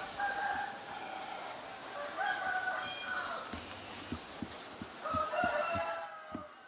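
Birds calling: three drawn-out calls, each about a second long, with short dull thumps in the later half.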